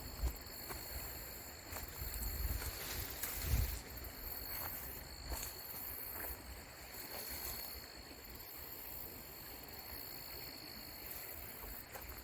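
Flowing creek water under a steady high-pitched whine, with low thumps of wind buffeting the microphone.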